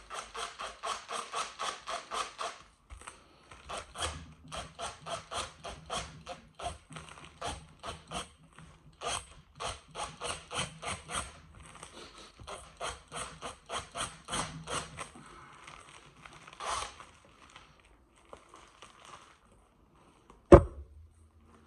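Quick back-and-forth scraping strokes from a hand tool, about four a second, in several runs with short pauses. One sharp thud near the end.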